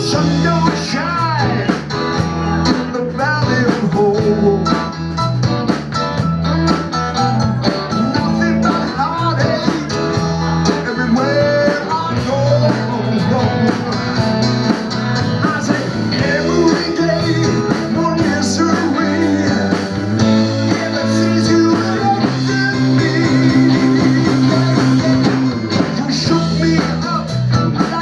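Live blues trio playing a blues number, with guitar lines to the fore over a steady bass line.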